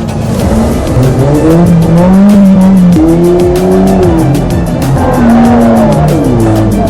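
Race car engines revving up and down as the cars corner, with tyre squeal, over background music with a steady beat.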